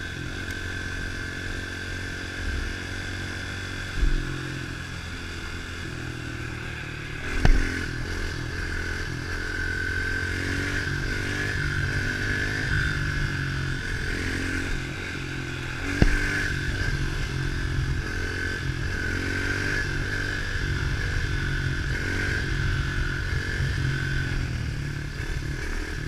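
110cc pit bike engine running under way, its pitch rising and falling with the throttle, with a steady high whine. A few sharp knocks about 4, 7½ and 16 seconds in, the one at 7½ the loudest.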